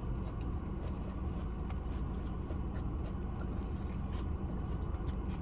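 Steady rain-and-rumble background: a low even rumble under a hiss of pouring rain, with scattered faint ticks.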